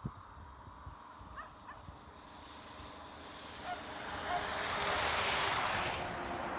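Farm birds calling a few times with short honks. A rushing noise swells up through the second half and is the loudest sound.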